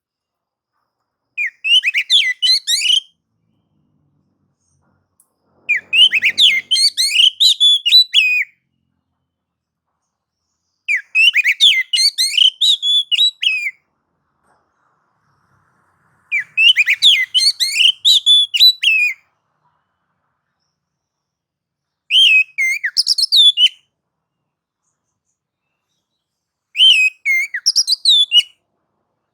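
Oriental magpie-robin (kacer) singing in the agitated, aggressive 'nagan' and 'ngobra' style. It gives six loud phrases of rapid, varied high notes, each two to three seconds long, with silent pauses between them.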